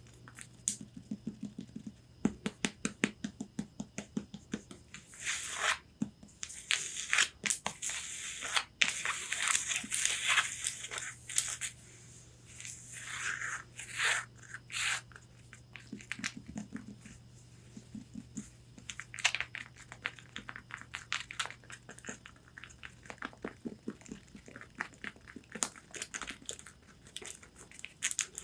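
Long fingernails tapping and scratching on a corset's fabric: quick runs of light taps, with stretches of raspy scratching in the middle.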